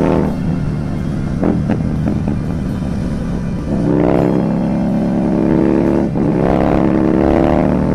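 Husqvarna Nuda 900R's parallel-twin engine under way: throttle eased just after the start, then the revs building about four seconds in, a short break near six seconds like an upshift, and pulling again.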